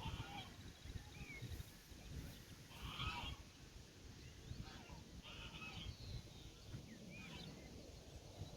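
Scattered short calls of farmyard fowl, one every second or so, some with a quick slide in pitch, over a faint low rumble.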